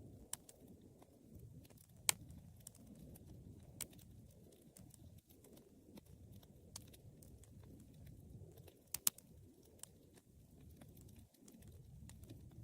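Wood fire crackling: a soft, low rumble of flames with scattered sharp pops, the loudest about two seconds in and a quick pair about nine seconds in.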